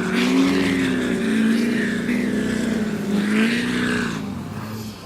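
A car engine running with its revs rising and falling gently. The sound dies down near the end.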